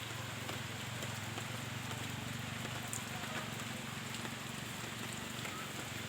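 Steady rain falling: an even hiss with scattered faint drip ticks over a low, steady hum.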